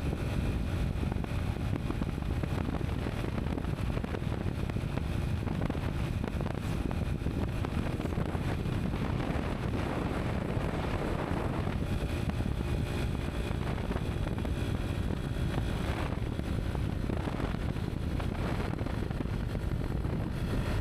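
Steady outdoor rushing noise, strongest in the low end and even throughout, with no clear pitched source.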